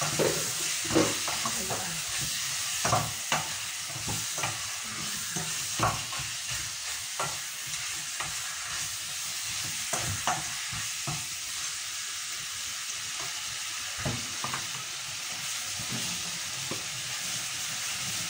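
Chicken pieces and onion sautéing in a pan: a steady frying sizzle, with a wooden spoon knocking and scraping against the pan at irregular moments as the meat is stirred. The knocks come less often after about eleven seconds.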